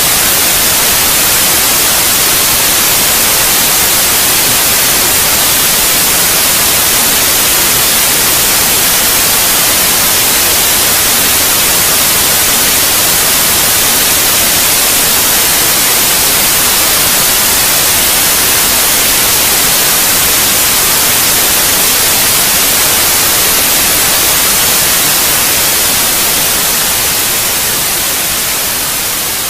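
Steady white noise: an even, loud hiss weighted toward the treble, with no tones or separate sounds in it. It starts to fade a little near the end.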